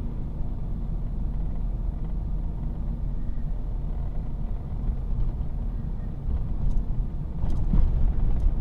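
Steady low rumble of a car driving on the road, heard from inside the cabin: tyre and engine noise, growing a little louder near the end.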